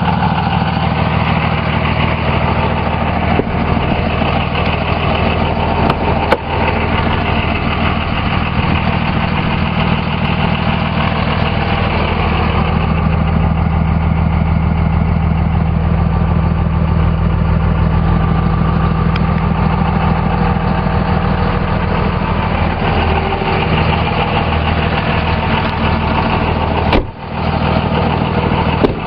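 5.9 Cummins turbo diesel inline-six idling steadily through a 4-inch performance exhaust, with one brief dip in the sound near the end.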